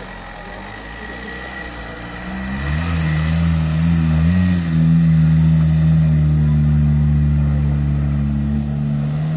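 Off-road trial buggy's engine revving hard under full load as it climbs a steep dirt bank with the wheels spinning. The revs climb about two and a half seconds in, dip and rise again briefly, then are held high and steady.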